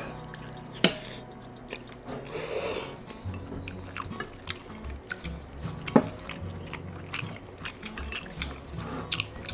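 Eating at a table: utensils clinking against dishes, with two sharp clinks about a second in and near six seconds, between bouts of chewing. Background music runs underneath.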